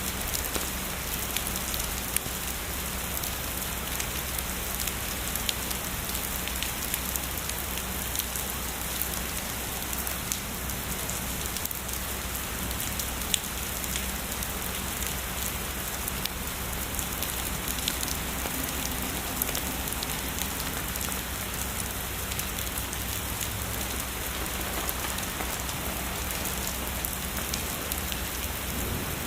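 Steady heavy rain falling, an even hiss of rainfall with many sharp individual drop ticks scattered through it. Its level holds constant, with no rumble of thunder standing out.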